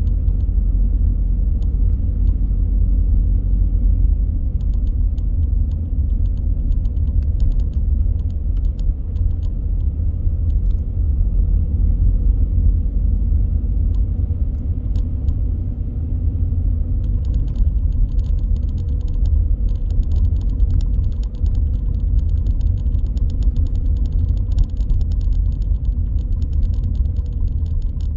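A car driving, a steady low rumble of engine and tyres on the road. From a little past halfway, a faint fine crackling is added on top.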